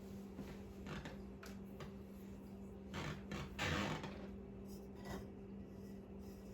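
Kitchen items being handled, making a few short rubbing and clattering sounds, the loudest a little past halfway, over a steady low hum.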